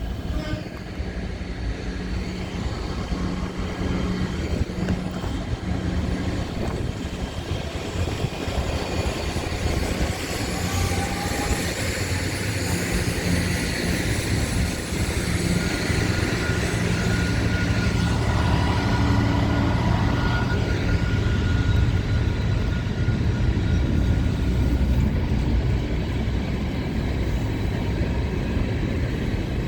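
A train running past on the railway, a steady rumble and hum with a few held tones that slowly grows louder over the span.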